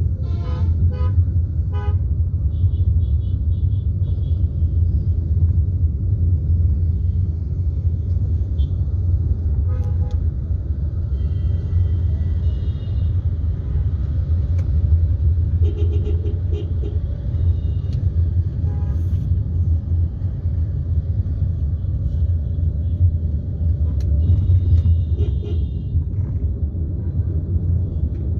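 Steady low rumble of road traffic, with vehicle horns honking on and off: a few short toots near the start and more horn blasts scattered through the rest.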